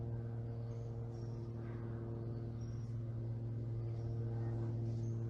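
Steady low droning hum, one deep tone with fainter overtones above it, that the person filming hears in the sky and likens to an airplane although no airplane is in sight. Faint short high chirps sound now and then over it.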